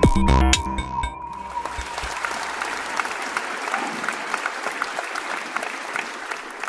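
Electronic intro music with sharp beats ends about a second in, giving way to audience applause that slowly fades.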